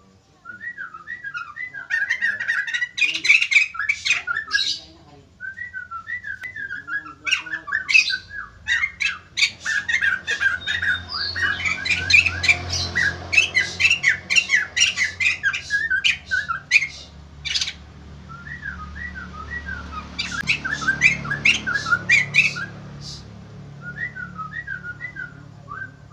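White-crested laughingthrush (poksay jambul) in full song: a busy, unbroken run of quick chirping notes with sharp, loud squawking notes over them.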